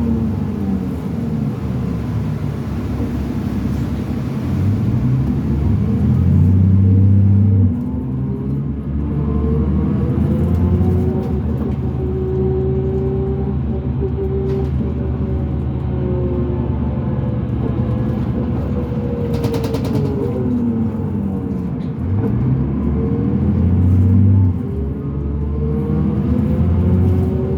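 Cummins ISL diesel in a 2005 New Flyer D40LF bus, heard from on board, pulling hard under acceleration while the ZF six-speed automatic shifts up. The engine note climbs, then drops suddenly about eight seconds in and again near the end. A whine rises and falls with road speed throughout.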